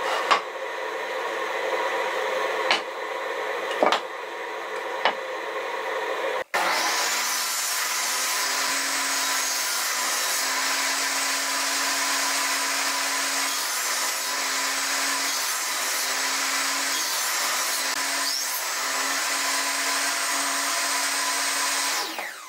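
Woodworking power tool: a steady machine hum with a few sharp knocks, then, after an abrupt change, a motor running steadily at high speed for about fifteen seconds before spinning down near the end.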